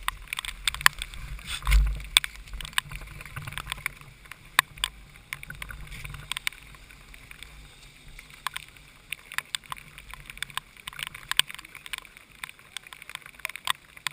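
Heavy rain, its drops tapping on the kart's onboard camera as many irregular sharp ticks over a faint hiss, with a few low thumps near the start; no engine is running.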